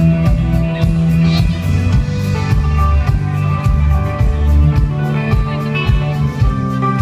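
Live rock band playing an instrumental passage: a drum beat with bass and guitar.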